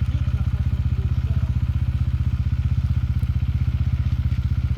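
Enduro motorcycle engine idling steadily, close by, with an even pulse.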